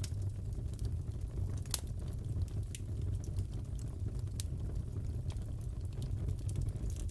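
Crackling fireplace: a steady low rumble of the burning fire with scattered sharp pops and snaps, one louder snap near the second mark.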